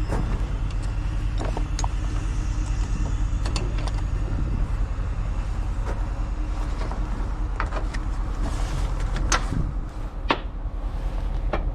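A vehicle engine running steadily at idle, with scattered clicks and knocks, two sharper ones near the end.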